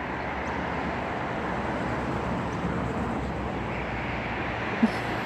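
Steady outdoor background noise: an even low rumble and hiss with no distinct events, with one short low sound near the end.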